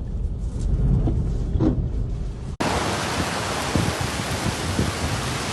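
Typhoon wind buffeting the microphone with a gusting low rumble, then an abrupt cut about two and a half seconds in to a steady, dense hiss of heavy wind-driven rain.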